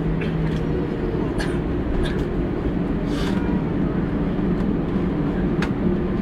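An airliner's jet engines running at takeoff power, heard from inside the passenger cabin: a loud, steady rush with a low hum, with a few light clicks of cabin fittings.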